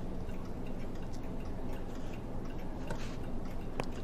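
A few faint, irregular clicks of guitar picks and small tools touching a brass Hermle clock movement as they are slid under the center cam, over a steady low hum.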